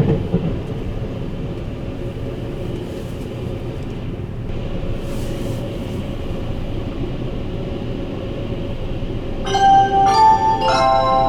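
Sleeper train running with a steady rumble heard from on board. Near the end, a bell-like chime melody starts over the PA: the signal that an onboard announcement follows.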